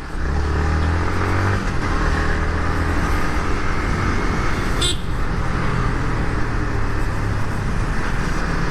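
Motor vehicle engine running steadily on the road, with road and wind noise, and a brief sharp click about five seconds in.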